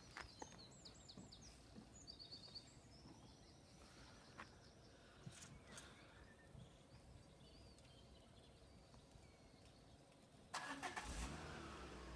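Quiet open-air ambience with small birds chirping and trilling in the first few seconds. About ten and a half seconds in, a louder low rumble begins and carries on.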